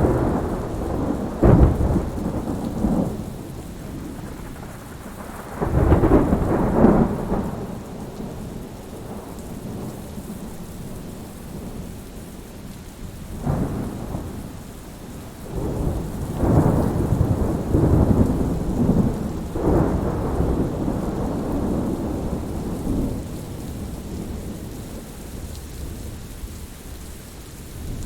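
Thunder rumbling and cracking again and again over steady rain. The loudest rolls come about a second in, around six seconds in, and in a longer run of rumbles in the second half.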